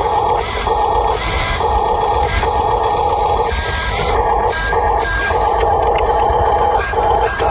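Electric motors and gearboxes of RC toy construction machines whining steadily, with short irregular scraping bursts laid over them.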